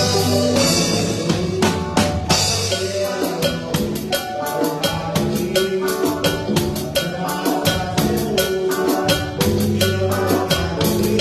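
A band playing, led by a drum kit: a steady beat of drum hits with cymbal crashes just after the start and about two seconds in, over sustained keyboard and bass tones.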